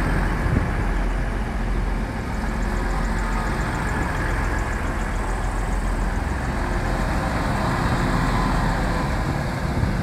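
A passenger train's engine idling steadily at the platform, a continuous low hum with no change in pitch.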